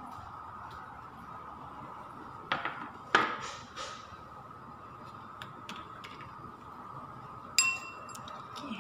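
Clinks and knocks of a cooking dish and its lid being handled, loudest about two and a half and three seconds in, over a steady hum. A short electronic beep comes near the end.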